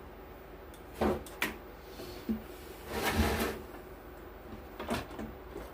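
Workbench handling noise: a couple of sharp knocks, then a scraping rustle, then a few lighter clicks, over a steady low hum.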